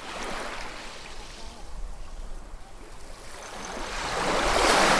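Ocean surf: a wash of water at the start that eases off, then a larger wave building and breaking, loudest near the end.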